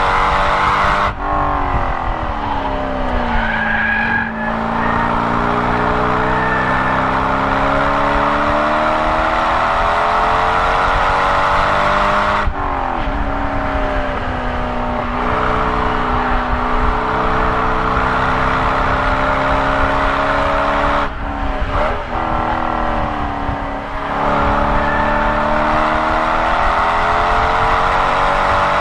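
Stock C5 Corvette Z06's 5.7-litre LS6 V8, heard from inside the cabin under hard acceleration on track. The engine note climbs steadily through long pulls and falls away sharply as the car slows for corners: about a second in, about twelve seconds in, and in a few quick steps around twenty-two seconds in.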